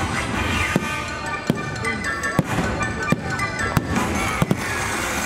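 Fireworks shells bursting in sharp bangs, about seven of them, roughly one every three-quarters of a second, over loud show music.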